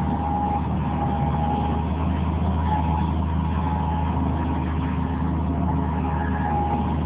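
Bobcat MT100 mini skid steer's diesel engine running steadily, with a faint higher whine that comes and goes.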